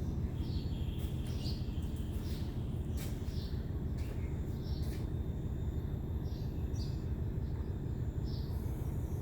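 Birds chirping in short calls every second or so over a steady low background rumble.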